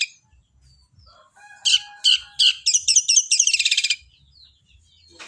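Long-tailed shrike singing a burst of rapid, repeated high chirps from about one and a half to four seconds in. The song is in the sparrow-like 'gereja' style, mimicking Eurasian tree sparrow chatter.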